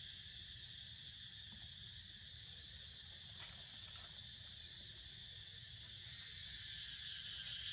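Steady outdoor chorus of insects, a continuous high chirring, growing a little louder near the end, with a faint click about three and a half seconds in.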